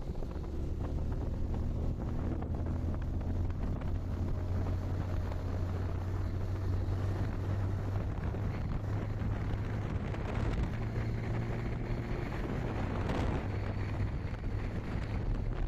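Motorcycle engine running steadily while riding, its low hum shifting a little in pitch, with wind noise on the microphone.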